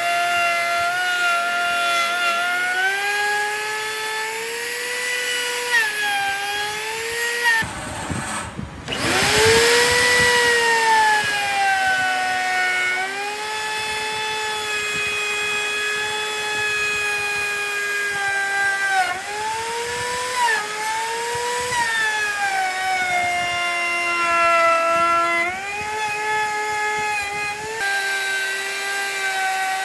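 Handheld electric power tool running steadily on wood, its motor whine sagging and recovering in pitch as the load changes. About eight seconds in it briefly drops out and spins back up.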